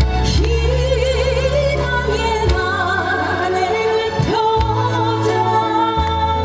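A woman singing a Korean popular song over instrumental accompaniment with bass and drums, with some long, wavering held notes.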